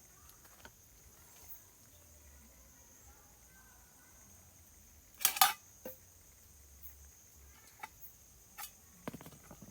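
Insects chirring steadily on a high note, with a few sharp knocks or clicks: a loud double knock about five seconds in, then smaller taps, and a cluster of knocks near the end.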